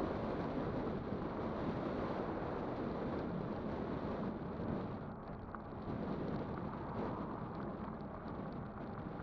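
Wind rushing over the microphone of a camera on a moving e-bike: a steady, dense buffeting noise that eases a little about halfway through.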